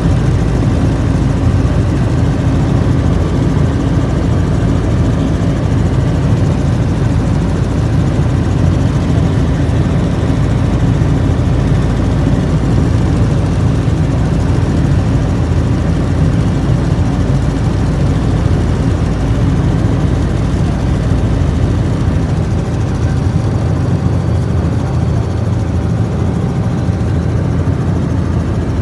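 Helicopter running: a loud, steady engine and rotor drone with no let-up.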